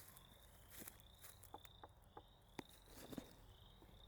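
Faint high chirping trill repeated about twice a second, from a small calling animal in the marsh, with a few light clicks and snaps scattered through it.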